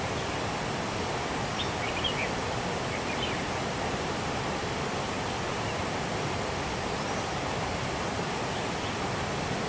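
Steady rushing noise, with a few short high chirps about two to three seconds in.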